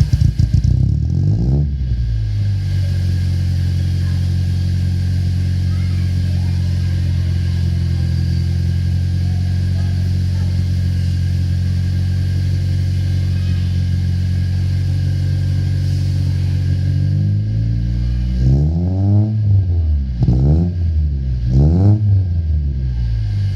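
Toyota Corolla EE90's 4E-FE four-cylinder engine through an HKS muffler on 3-inch piping. The revs drop back to a steady idle in the first couple of seconds, and near the end the throttle is blipped three times, each rev rising and falling back to idle.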